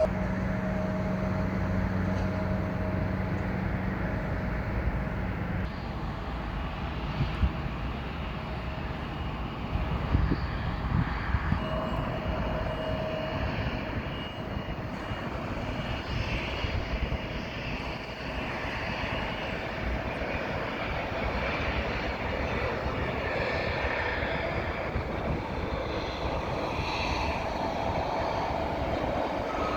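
Airliner engines running, a steady rumble with a faint whine that fades in and out.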